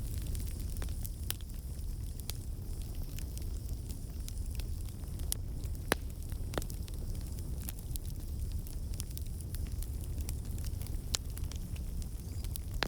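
Campfire burning: a steady low rumble of flames with scattered sharp crackles and pops, a few louder snaps about halfway through and again near the end.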